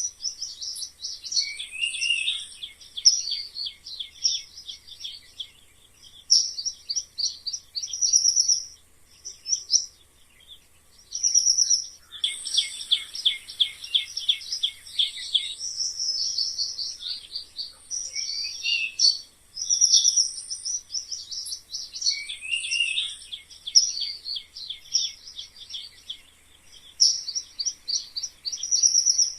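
Mice squeaking: short, high-pitched chirping squeaks come in clusters and rapid trains, with brief pauses between runs.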